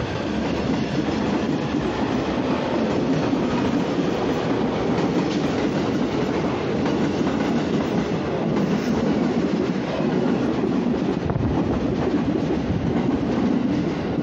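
JR 185 series electric train running past close along a station platform: a steady, loud rumble of wheels on rail with clickety-clack.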